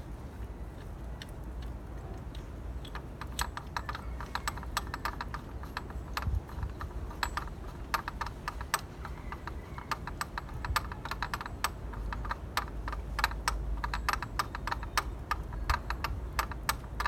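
Ratchet wrench clicking in short, irregular runs as a spark plug is screwed back in and tightened.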